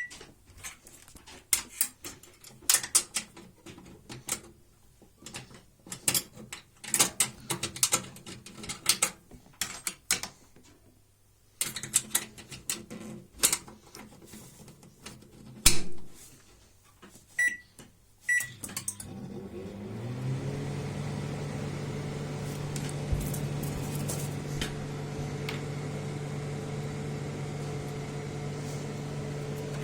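Microwave oven: a run of clicks and knocks as it is handled, two short keypad beeps, then it starts up and runs with a steady hum through the rest.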